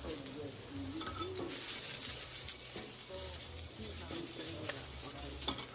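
Food sizzling in a hot pan, with a few sharp clicks of a utensil against the pan.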